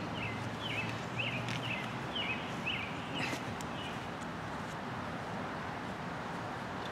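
A bird calling in a quick series of short, high notes, about two to three a second, stopping after about three and a half seconds, over steady outdoor background noise.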